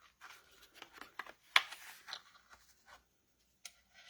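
Paper rustling with small light clicks as a metal brad is worked through card stock, the sharpest click about one and a half seconds in and another near the end.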